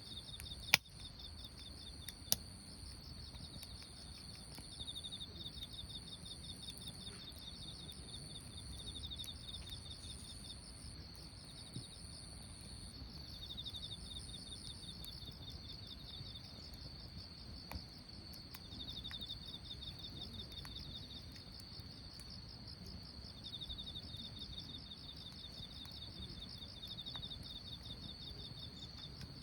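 Crickets and other insects trilling steadily, one of them in pulsing bursts that come and go, over a wood campfire that gives a few sharp pops, the two loudest about a second and two seconds in.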